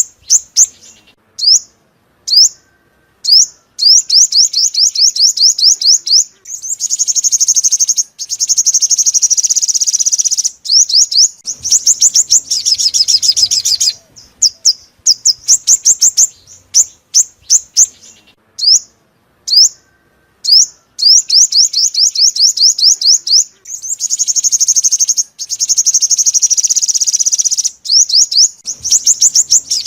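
A sunbird singing: fast runs of high, thin chirps and trills, broken by short pauses and repeating in a loop. It is recorded song made as a lure for catching sunbirds with a loudspeaker trap.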